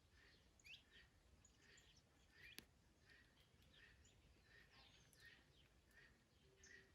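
Faint garden birdsong: small birds chirping, one short note repeating about twice a second among quick higher calls, over a low rumble of wind. A single sharp click about two and a half seconds in.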